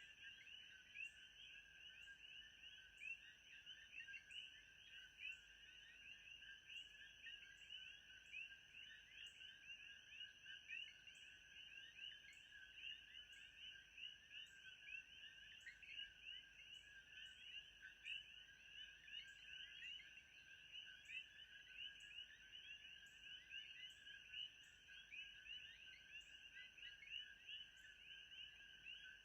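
Faint chorus of calling frogs: many short chirps overlapping without a break, over a steady high tone, with a regular high tick a little more than once a second.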